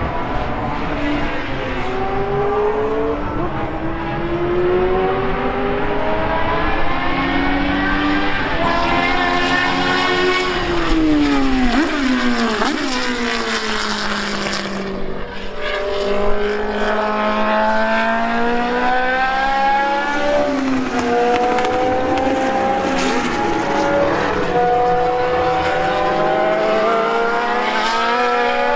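Racing car engines accelerating hard on track, the pitch climbing through each gear and then falling sharply on downshifts into corners, repeated many times. Several cars are heard at once at times.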